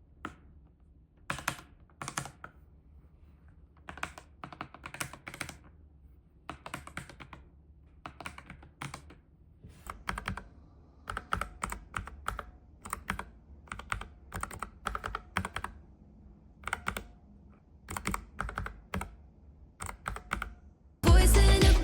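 Typing on a Satechi SM3 low-profile mechanical keyboard with tactile brown switches: irregular runs of key clacks. Loud music cuts in suddenly near the end.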